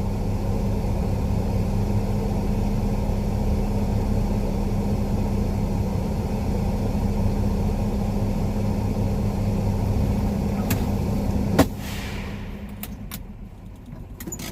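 Semi-truck diesel engine idling steadily, heard from inside the cab. About eleven and a half seconds in, a sharp click, and the engine sound dies away.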